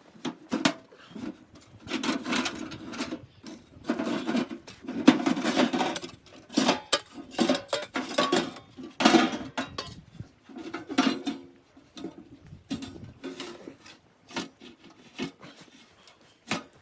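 Objects being handled at close range: clattering knocks and clicks mixed with scraping and rubbing, in irregular bursts that sound like pots and utensils.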